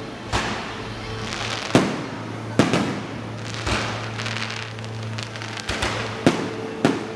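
Truck-mounted electronically fired fireworks going off: sharp bangs at irregular intervals of about a second, with crackling between them.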